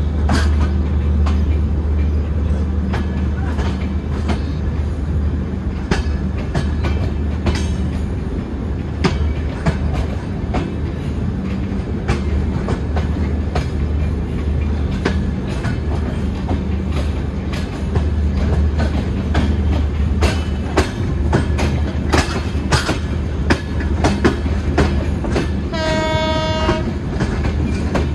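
Passenger train rolling along the track, with a steady low rumble and wheels clicking irregularly over the rail joints. Near the end a train horn sounds once, briefly, for under a second.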